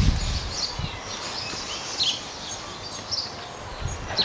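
Small songbirds chirping and twittering in quick, scattered calls, with a few soft low thumps, the strongest right at the start and near the end.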